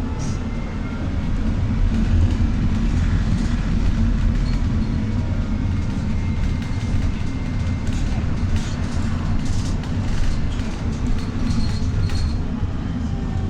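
Trolleybus in motion, heard from inside: a steady low rumble from the ride, a faint electric motor whine that glides up and down in pitch, and scattered light rattles.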